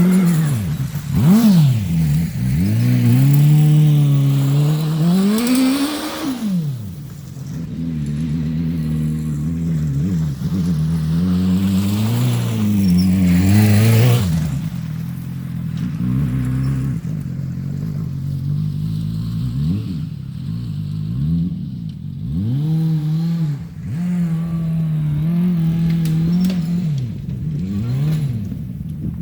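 Single-cylinder gas engine of a homemade mini monster truck buggy, revving up and falling back again and again as it is driven hard, with quick throttle blips and longer pulls.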